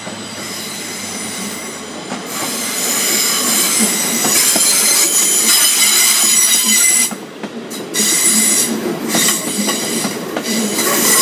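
Electric multiple-unit passenger train passing close by on a curve, its wheels squealing with several high steady tones over the rumble. The sound builds over the first two or three seconds as the train arrives, dips briefly about seven seconds in, then comes back loud.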